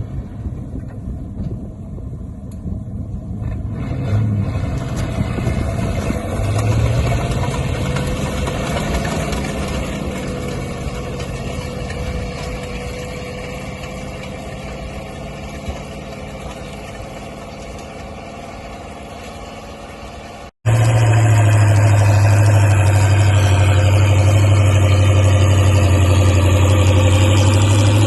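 Linn tractor's engine running as it travels. About two-thirds of the way through, the sound breaks off suddenly and comes back as a louder, steady engine.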